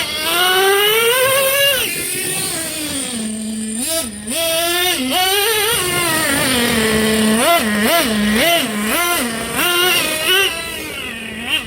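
Nitro engine of a Traxxas T-Maxx Classic 3.3 RC truck being revved on the throttle and dropping back to a steady idle between blips. There is one long climb in pitch at the start, then a run of quick rev blips about twice a second in the second half.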